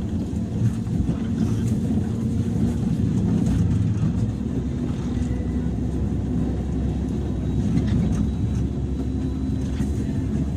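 Running sound inside a JR 103 series electric train's motor car: a steady rumble of wheels on the rails with a steady low hum from the traction motors.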